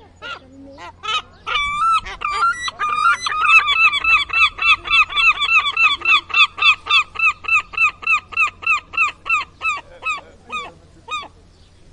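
Gull giving its long call. A few drawn-out wails are followed by a fast, even run of short laughing notes, about four a second, which tail off near the end.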